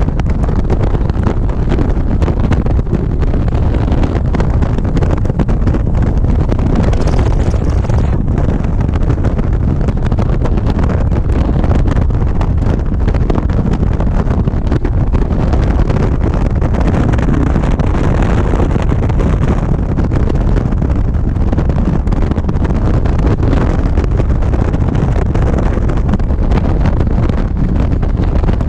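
Wind buffeting the microphone on a motorcycle riding at a steady speed, with the motorcycle's engine and road noise running underneath.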